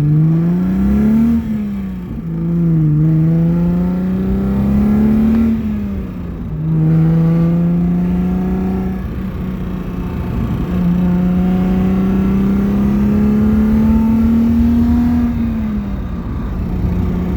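Alfa Romeo GTV6's 2.5-litre Busso V6 engine accelerating hard through the gears. The revs climb steeply and fall at a gear change about a second and a half in, climb again and fall at a second shift around six seconds in. They then hold and rise slowly until the driver eases off near the end.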